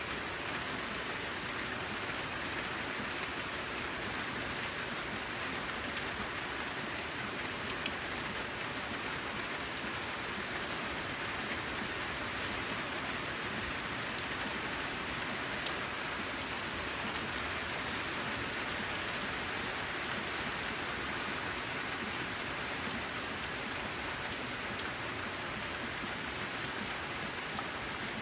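Steady rain falling on a corrugated metal roof: an even, dense patter with a few louder single drops ticking here and there.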